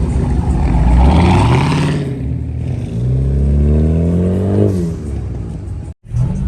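Car engine revving, its pitch climbing twice, the second time a long steady rise, before the sound cuts out abruptly near the end.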